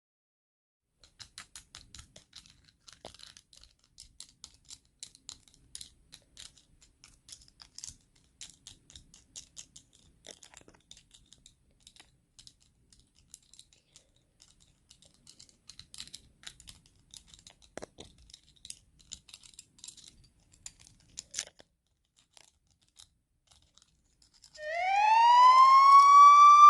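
Faint, irregular light clicks and crackles for most of the stretch, then near the end a loud police siren wail starts and rises in pitch before holding high.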